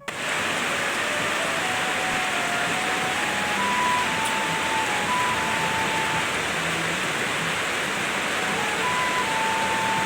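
Heavy tropical rain falling steadily, an even hiss with no breaks. A faint tune of single held notes, changing pitch every half second or so, sounds over the rain.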